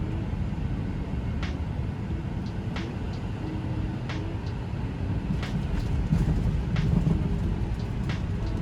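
Airliner cabin noise: a steady low rumble with a few scattered light clicks and rattles, a little louder around two thirds of the way through.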